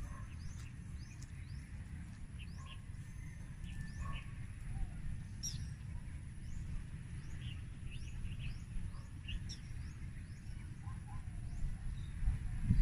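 Small birds chirping, with many short, quick high chirps scattered throughout, over a steady low rumble.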